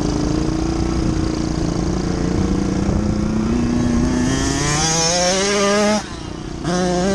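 Dirt bike engine running and revving up: its pitch climbs steadily for a couple of seconds, drops off sharply about six seconds in, then picks up again within a second.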